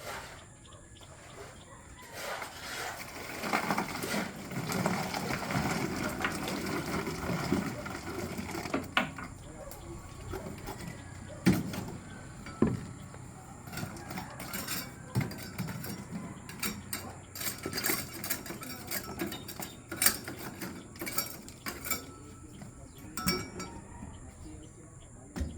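Scattered sharp metallic clinks and knocks, with a stretch of mixed noise and indistinct voices between about two and nine seconds in.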